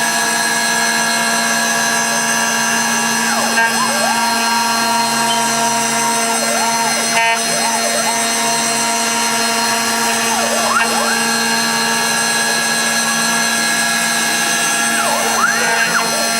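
CNC router making a finish pass on a karri hardwood neck blank. The spindle whines steadily under a motor tone that drops in pitch about four seconds in and climbs back near eleven seconds, with short swooping glides each time the machine changes direction.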